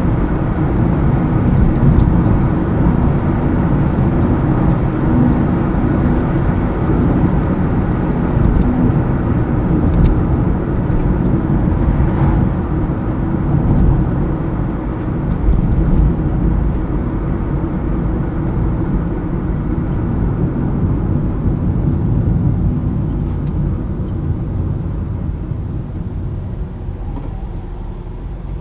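Car driving on the highway: steady engine hum and tyre rumble on the road, growing a little quieter over the last several seconds.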